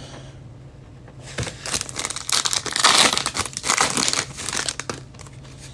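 A trading-card pack's foil wrapper crinkling as it is torn open, starting about a second and a half in and loudest around the middle.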